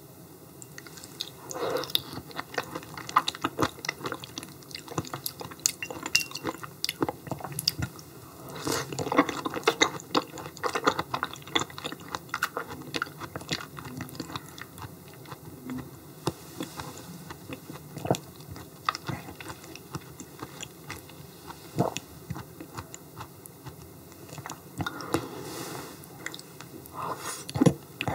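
Close-miked chewing and wet mouth sounds of a person eating yellow stingray liver, with many irregular sharp smacks and clicks.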